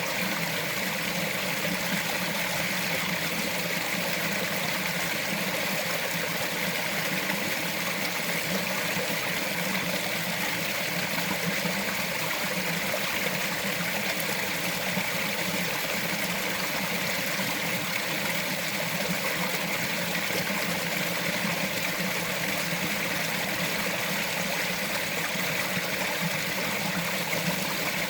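A small mountain stream running steadily over rocks, an even rush and trickle of water.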